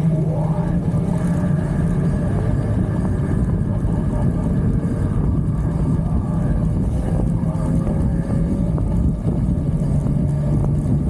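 Motorcycle engine running at a steady pitch while riding, a constant low drone with no breaks.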